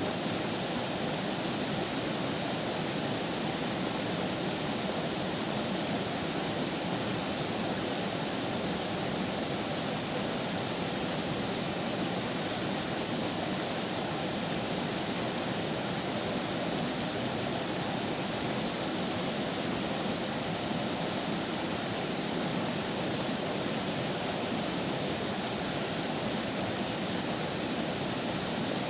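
Running river water flowing steadily: an even, unbroken rushing hiss with no splashes or changes.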